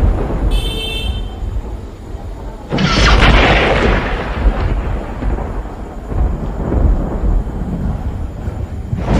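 Thunder rumbling as a storm builds, with a sudden loud crack about three seconds in that rolls away over the next seconds.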